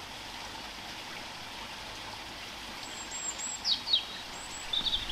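Small birds chirping a few times in the second half over a steady outdoor rushing hiss.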